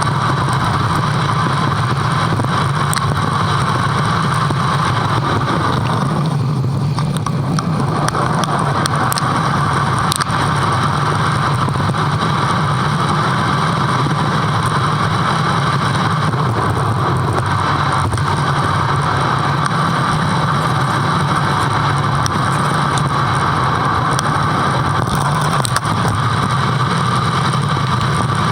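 Steady running noise of a bike in motion, an even drone that holds the same pitch and level throughout with no clear rise or fall.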